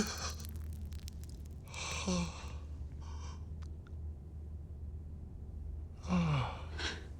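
A person's breathy sighs, twice, each trailing off in a short falling voiced tail, over a low steady hum.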